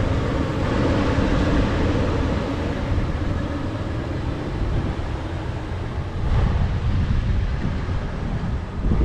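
Steady rumble and rushing noise of a moving vehicle, shifting slightly about six seconds in.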